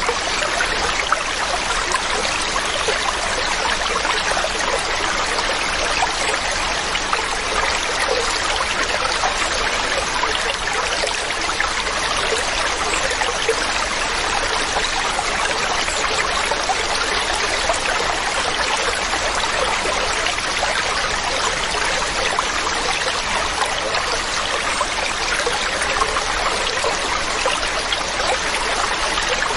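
Waterfall: falling water rushing and splashing in a steady, unbroken wash of sound.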